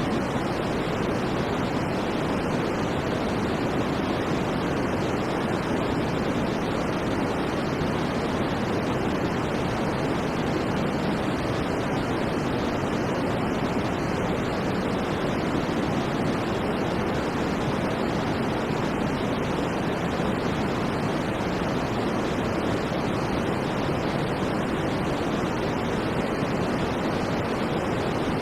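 Steady synthetic white noise of the sleep-aid kind, an even hiss with most of its weight in the low and middle range and little above the top.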